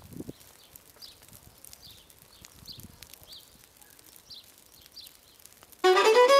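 Quiet rural ambience with short, high chirps repeating every half second or so, like a small bird calling. Near the end a violin-led folk tune comes in loud and drowns it.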